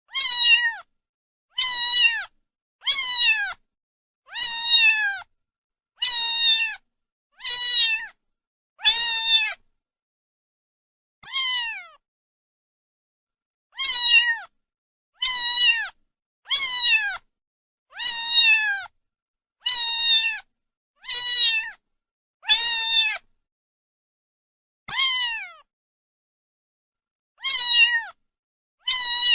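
A domestic cat meowing over and over: about eighteen high-pitched meows, each under a second long and falling in pitch at the end, most of them a second or so apart, with a few longer pauses.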